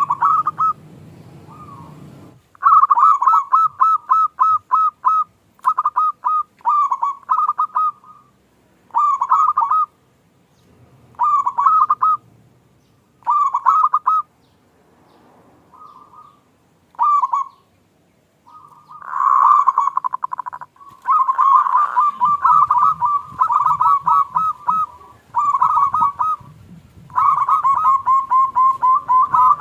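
Zebra dove (perkutut) cooing. It sings repeated phrases of quick staccato coos, a new phrase every second or two with short pauses between.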